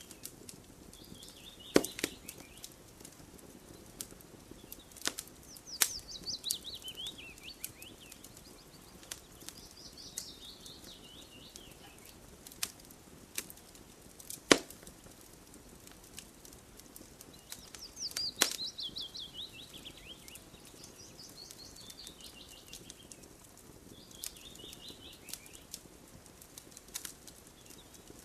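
Wood fire crackling, with a few loud sharp pops among softer crackles. Over it, every few seconds, a bird sings a phrase of quick notes that falls in pitch.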